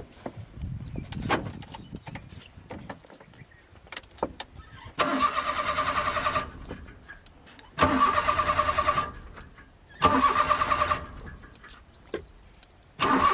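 Car starter motor cranking the engine in four separate tries of a second or so each, without the engine catching.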